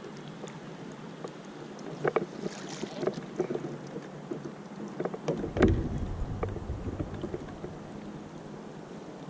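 Scattered knocks and clatter on a small fishing boat, over faint wind hiss, with one heavier, deeper thump a little past halfway.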